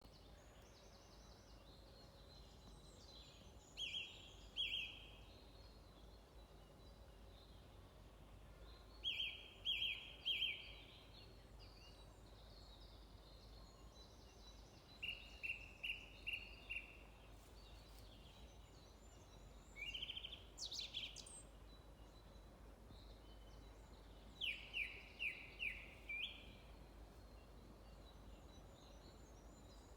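A songbird singing short phrases about every five seconds, each a quick run of three to five clear notes, with fainter higher twittering between, over a steady low background hum.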